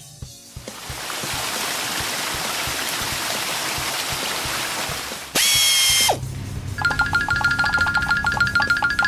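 Cartoon sound effects: a steady spraying hiss for about four seconds, then a short, loud whistle-like tone that drops off, then a fast, even run of clicking ticks.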